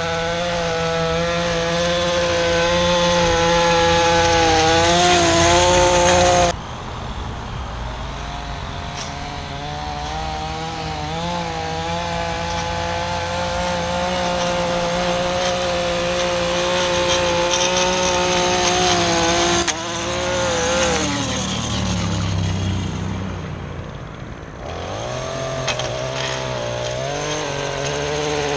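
Handheld two-stroke lawn-tool engine running near full throttle, a string trimmer or edger type powerhead. The sound changes abruptly about six seconds in. About twenty seconds in the pitch falls as the throttle is let off, and it revs back up a few seconds later.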